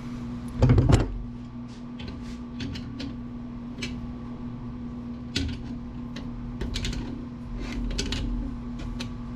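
Hand tools working nuts off metal parts inside a gutted amplifier: scattered sharp clicks and metal clinks, with a dull thump just before a second in. A steady low hum runs underneath.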